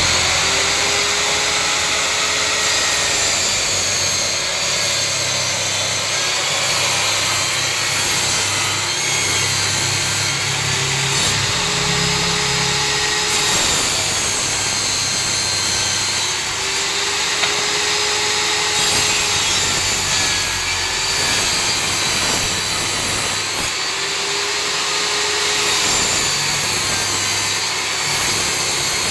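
Table saw ripping wood lengthwise, running steadily, with a tone that swells and fades about every seven seconds as it cuts.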